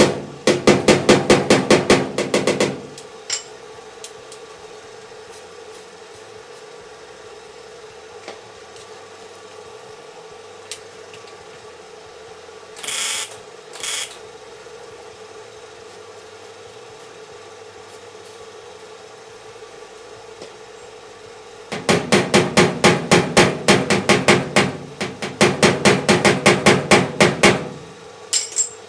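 Hammer striking sheet steel in two fast runs of blows, about four a second, one run at the start and a longer one near the end. Two short hissing bursts come in between, over a steady faint hum.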